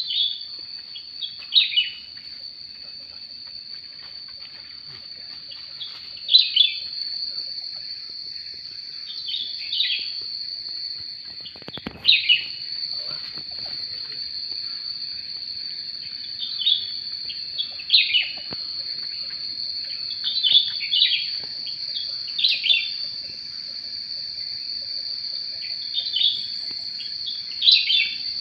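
Cucak rante calls: short, downward-sweeping whistled notes, often in quick pairs, repeated every second or few seconds over a steady high-pitched insect drone.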